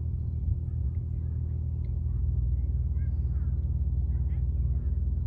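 An engine running with a steady low drone, growing a little louder about two seconds in, with faint bird chirps above it.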